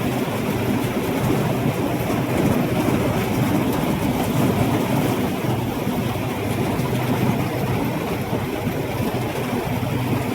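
Rice combine harvester running steadily under load, its engine humming beneath the clatter of the cutting and threshing machinery.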